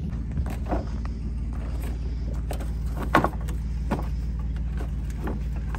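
A motor vehicle's engine idling steadily, with a few sharp metallic knocks and clanks over it, the loudest about three seconds in.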